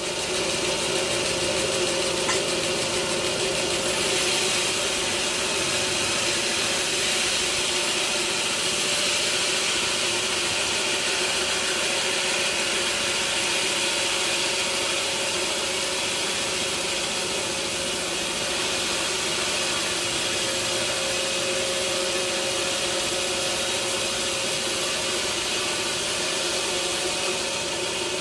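Sawmill machinery running steadily: a constant mechanical hum with a hiss over it, unchanging throughout.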